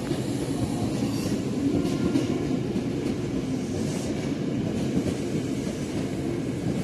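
KRL electric commuter train running through the station: steady wheel-on-rail noise with a low, even hum.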